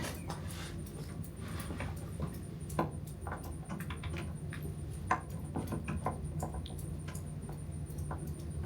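Scattered small clicks and scrapes of hands and metal parts as a drain fitting is worked back into an RV generator's oil drain, over a steady low hum.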